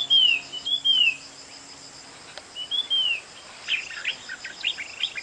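A small bird chirping: arched, whistled notes, several coming in pairs, with a quick run of short clipped notes about four seconds in, over a steady high trill.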